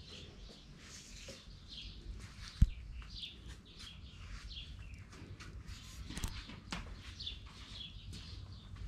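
Birds chirping: repeated short, high, falling chirps, with a single sharp thump about two and a half seconds in.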